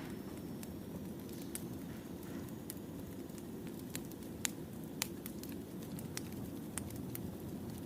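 Wood fire crackling: a steady low rumble of burning logs with irregular sharp pops and snaps, the two loudest a little past the middle.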